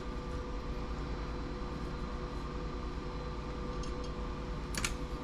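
Steady mechanical hum from a machine such as a fan running in the workshop, with one sharp clink of a small part being handled near the end.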